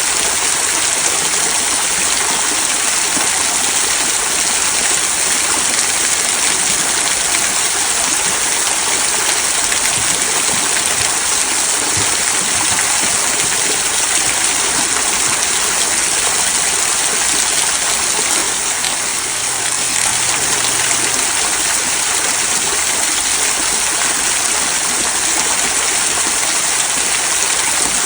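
Small waterfall trickling and splashing over mossy rocks into a stream below: a steady, even rush of water with a brief slight dip about two-thirds of the way through.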